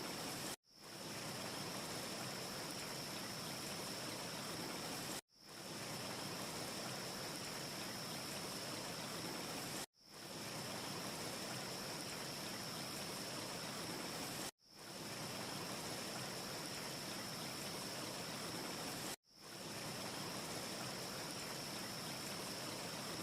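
Looped ambience track of steady rushing noise with a faint high whistle riding on it and no crackles. About every four and a half seconds it cuts out for an instant and fades back in, five times over, the seam of a short repeating loop.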